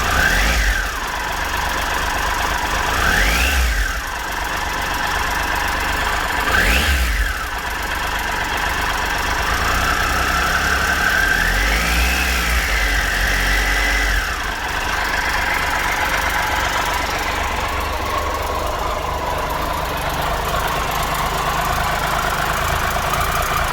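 2013 Triumph Tiger Explorer's three-cylinder engine idling, blipped three times in quick revs and then held up for a few seconds before dropping back to idle. It runs with a light mechanical tick that remains after a new cam chain, cam chain tensioner and exhaust header gaskets, which the mechanic calls normal engine noise.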